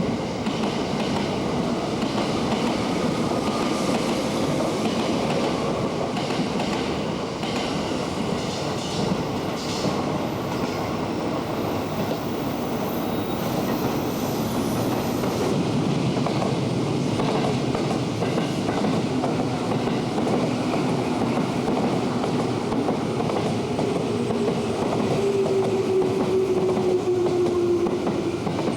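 Electric commuter train running alongside the platform, its wheels clattering over the rail joints. Near the end a motor whine slowly falls in pitch as the train slows.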